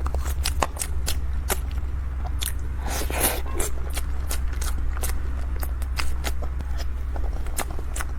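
Close-miked eating: biting and chewing crisp food, with irregular sharp crunches and a denser run of crunching about three seconds in.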